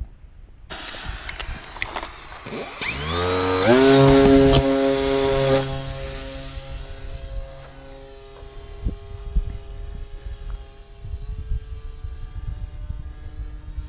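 RC racer airplane's motor and propeller spinning up, rising in pitch to a steady high-throttle drone, loudest for a couple of seconds before easing back. A sudden hiss starts about a second in and fades as the motor settles.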